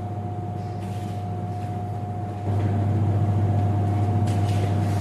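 A steady mechanical hum with a constant whine over it, stepping up louder about halfway through.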